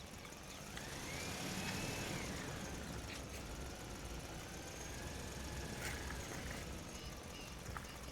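Small electric motor of a toy tractor whining as it runs. Its pitch rises about a second in, holds, then drops and settles.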